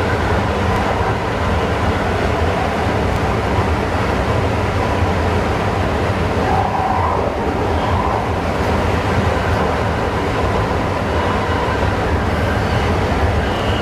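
Passenger train running steadily along the track, heard from inside the driver's cab: an even rumble of wheels and running gear with a low hum.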